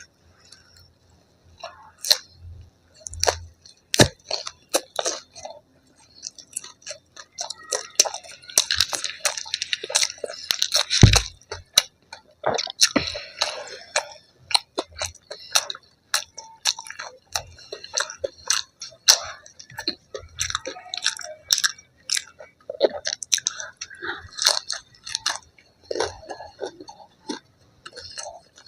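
A person chewing and crunching food close to the microphone: a long run of sharp crunchy bites mixed with wetter chewing and squishing sounds.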